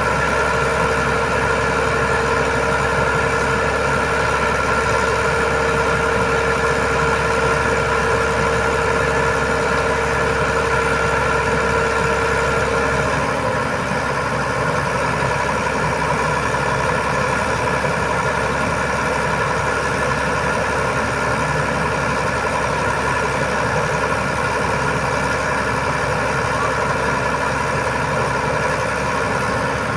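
Heavy diesel engine of an Iveco Trakker 380 boom truck running steadily at idle. About 13 seconds in, a steady whine drops out and the low hum eases slightly.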